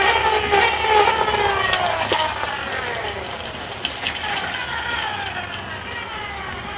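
Engines going past, several overlapping tones sliding steadily down in pitch and fading away, with a few sharp clicks.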